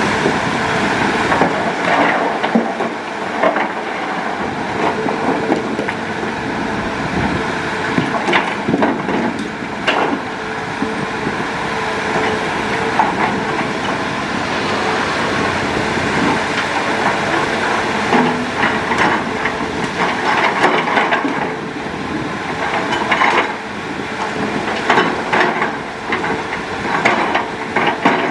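Hitachi Zaxis hydraulic excavator working: its engine and hydraulics run steadily under repeated clanks and knocks, which come thicker in the second half.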